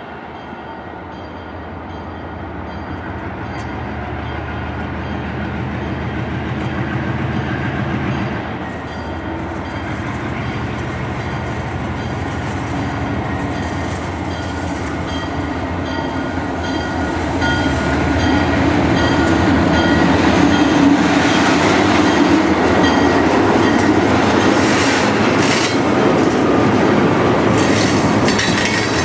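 A train moving along the track, getting steadily louder as it comes closer, with wheels clattering over the rails. It grows markedly louder about two-thirds of the way through.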